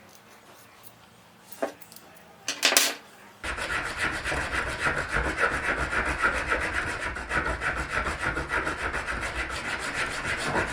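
A couple of light knocks, then a hand tool rasping on PVC pipe in quick back-and-forth strokes, about three a second, starting about a third of the way in and continuing.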